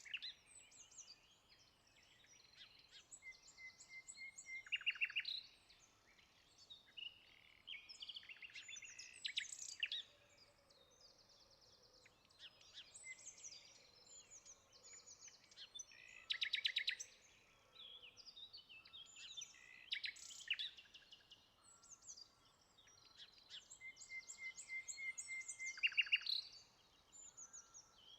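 Songbirds singing: short high chirps and rapid trills in phrases that recur every few seconds over a faint background hush.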